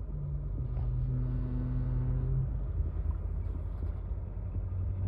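A vehicle driving, with a steady low rumble and an engine hum that drops in pitch in steps as it slows.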